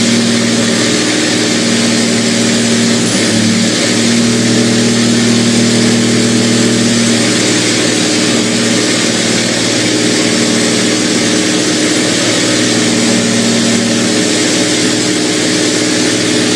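Diesel big-rig truck engine held at high revs during a burnout, running steadily over a dense hiss, with small shifts in pitch a few seconds in.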